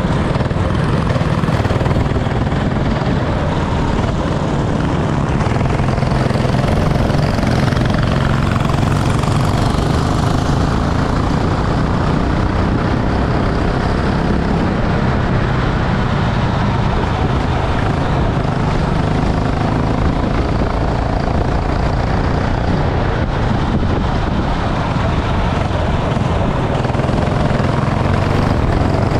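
Go-kart engine running at race pace, a steady engine drone under a constant rush of noise with no breaks.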